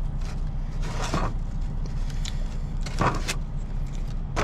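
Steady low hum of an idling semi-truck engine heard inside the cab, with two short rustling or breathing sounds about a second and three seconds in.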